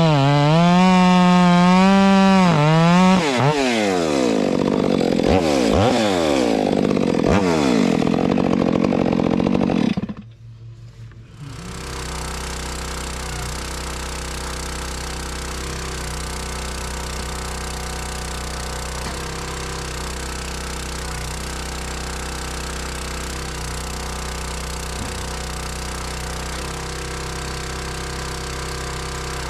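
Stihl MS 462 chainsaw at high revs cutting hickory, its pitch dipping and rising under load, then sweeping up and down as the throttle is worked. About ten seconds in it drops out, and after a short lull a steady, lower engine drone runs on evenly.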